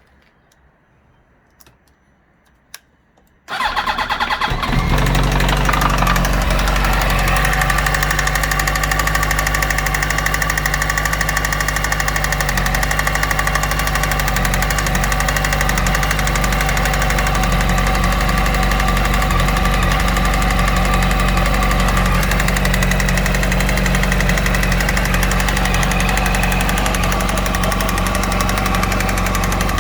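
A single click, then about three and a half seconds in a 2008 Yamaha YZF-R1's inline-four engine starts and settles into a steady idle. It idles with a knocking that the owner reports as engine knock.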